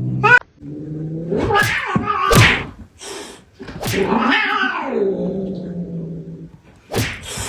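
Cats fighting: low, drawn-out growling yowls that waver up and down in pitch, broken by several sharp, sudden spits or hisses.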